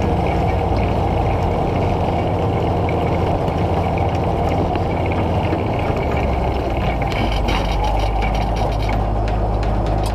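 Case IH 1455 XL tractor's six-cylinder diesel engine running steadily. From about two-thirds of the way through, sharp clicks and rattles come in over the engine.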